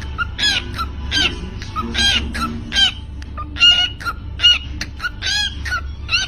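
Cockatiel calling over and over, a shrill call roughly every second, with a steady low hum underneath.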